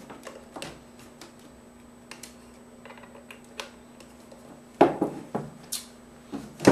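Quarter-inch patch cable plugs being handled and pushed into jacks: a scatter of small clicks and knocks, with a louder cluster about five seconds in, over a faint steady hum.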